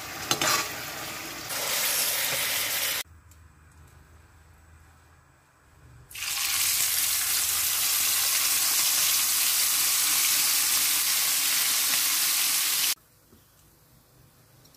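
A metal spatula clicks and scrapes against a wok as a chilli mixture is stirred and sizzles. After a quieter gap, a pounded slice of beef for dendeng batokok deep-fries in hot oil: a loud, steady sizzle for about seven seconds that cuts off suddenly.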